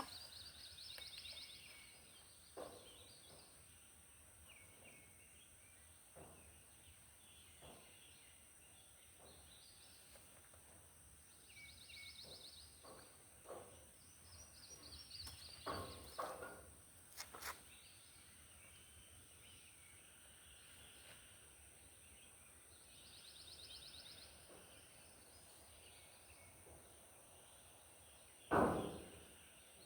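Faint birdsong outdoors, several rapid high trills that come and go. A few light knocks are scattered through it, with one louder thump near the end.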